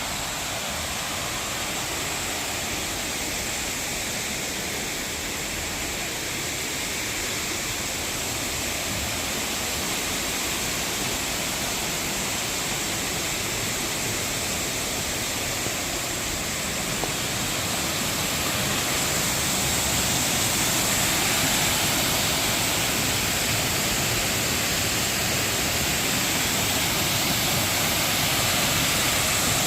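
Water of a rocky mountain valley stream rushing steadily, a continuous hiss of flowing and falling water that grows a little louder about two-thirds of the way through.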